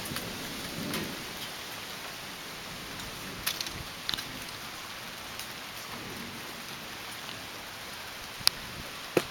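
Steady summer rain falling in a thunderstorm: an even hiss with scattered sharper drop impacts, the clearest about three and a half seconds in, around four seconds and near the end.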